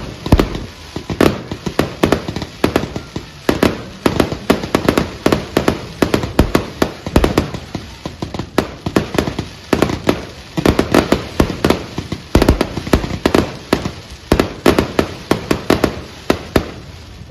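Fireworks going off: a dense, uneven run of sharp bangs and crackles, several a second, that stops at the very end.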